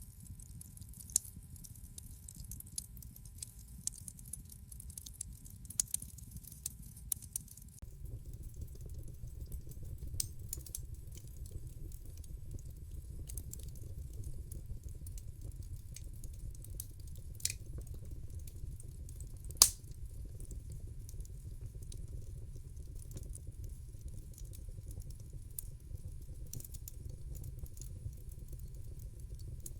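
Wood fire crackling in a fireplace: irregular sharp pops and snaps over a steady low rumble of the flames. The rumble grows fuller about eight seconds in, and one pop about two-thirds of the way through is much louder than the rest.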